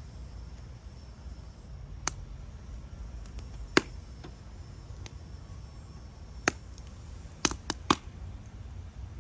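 Wood fire crackling, with six sharp pops, three of them in quick succession near the end, over a low steady rumble.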